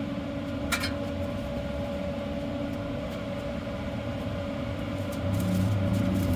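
Steady mechanical hum of running equipment, holding a constant tone over a low rumble, with one short click about a second in; the low rumble grows louder near the end.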